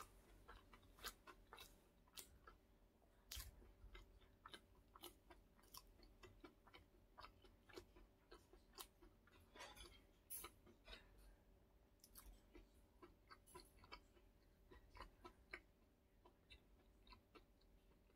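Faint close-miked chewing of a last mouthful with the lips closed: soft, irregular wet mouth clicks, several a second, over a faint steady hum.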